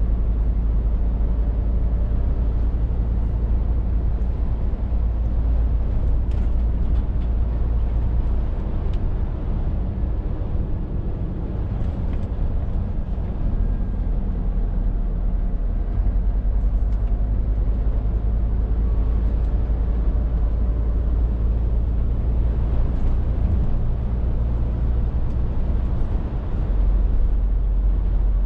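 Scania R450 lorry's 13-litre six-cylinder diesel engine pulling steadily on the road, a deep drone under tyre and road noise. The engine note shifts in pitch a few times, about a third of the way in, around the middle and near the end.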